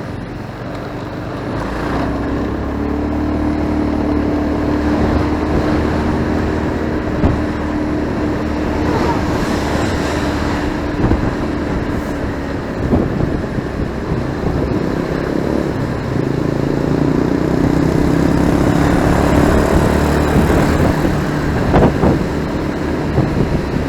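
Motorcycle engine running while riding in road traffic, over steady road and wind noise. The engine note holds steady for the first half, fades around the middle, and comes back rising in the second half.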